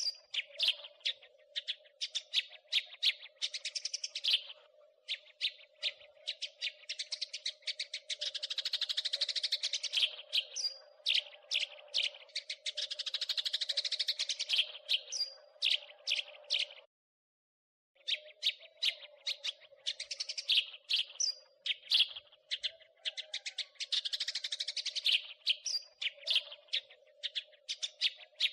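House sparrows chattering: quick runs of sharp chirps with longer, dense churring trills, over a faint steady hum. The sound cuts out completely for about a second partway through, then the chirping resumes.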